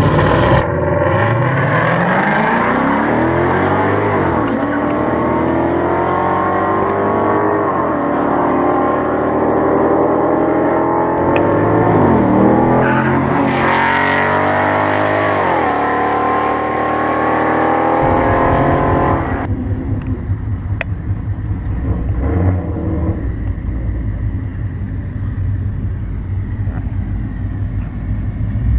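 Car engine accelerating hard through the gears. The pitch climbs and falls back at each upshift, several times, until the note stops short about two-thirds of the way in. After that a muscle car's engine idles close by with a low, uneven rumble.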